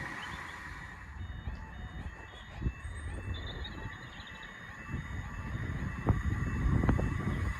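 Pedestrian level-crossing audible warning sounding a repeating high two-tone beep, alternating between two pitches, over a low rumble of a passing train, with a few sharp knocks near the end.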